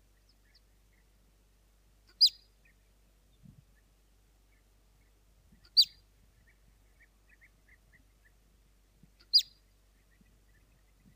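Marmot giving alarm whistles: three short, sharp, high calls falling in pitch, about three and a half seconds apart.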